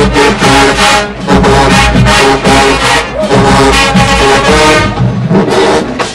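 Marching band playing loudly, with brass (trombones and trumpets) and drumline percussion beating out a steady rhythm; the band thins out briefly about five seconds in.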